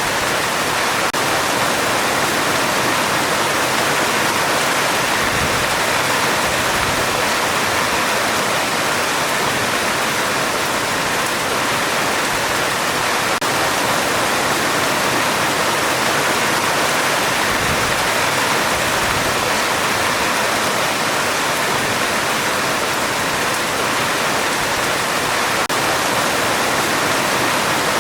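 Heavy rain falling steadily on a metal roof, a dense, even hiss with no thunder heard.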